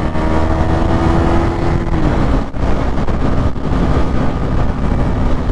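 Motorcycle engine running under throttle while riding, with heavy wind rumble on the helmet microphone. The engine note rises slightly, drops about two seconds in, then holds steady.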